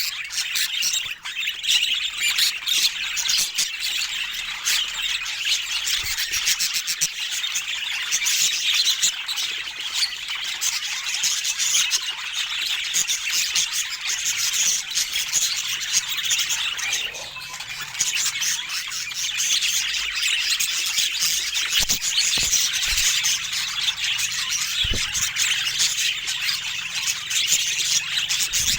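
Budgerigars chattering and warbling without a break, a busy mix of squawks, chirps and clicks.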